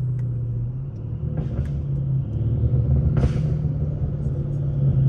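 Mercedes-Benz CLS550's twin-turbo V8 with downpipes and a straight-piped exhaust under way: a steady low engine drone that grows louder as the car pulls harder, with a couple of short noisy bursts in the middle.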